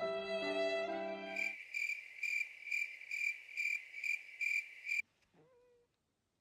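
Bowed-string music ending, then a high, cricket-like chirping, about two chirps a second, that cuts off suddenly.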